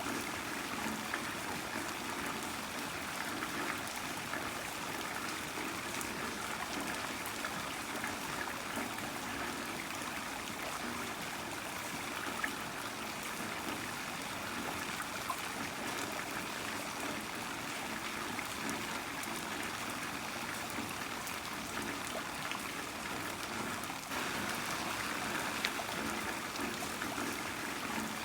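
Heavy rain falling steadily: a dense, even hiss dotted with the ticks of single drops, growing a little louder about 24 seconds in.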